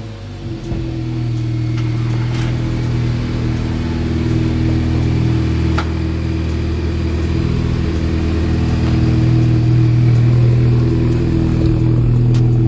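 Volkswagen Jetta GLI's 2.0-litre turbocharged four-cylinder running steadily at low revs as the car creeps slowly forward, its exhaust note swelling slightly about nine seconds in.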